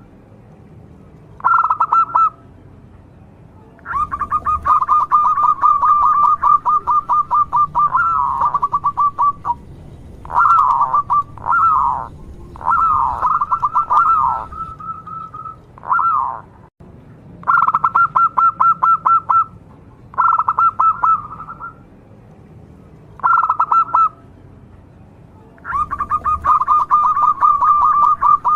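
Zebra dove singing: bouts of rapid staccato cooing notes, some short and some running several seconds, with brief pauses between them.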